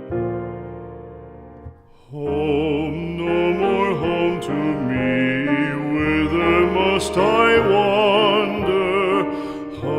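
Music: a piano chord dies away, then about two seconds in a singer with a strong vibrato begins a slow classical-style song over piano accompaniment.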